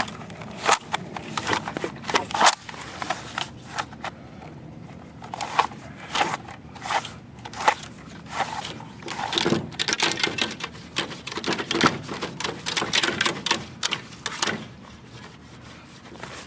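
Drain snake cable being worked through an air-conditioner condensate drain line to clear debris: irregular clicks, rattles and scrapes, busiest from about ten to fifteen seconds in.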